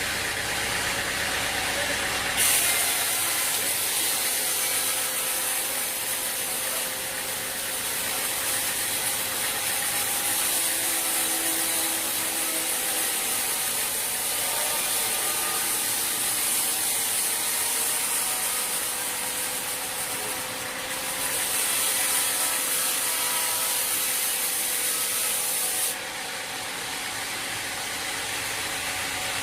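A sawmill saw cutting through wood: a loud high-pitched hiss that starts suddenly a couple of seconds in, dips briefly partway through and cuts off near the end, over a steady machine hum.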